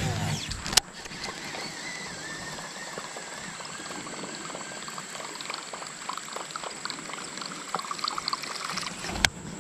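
Creek water running and trickling, with a sharp knock just under a second in and another near the end.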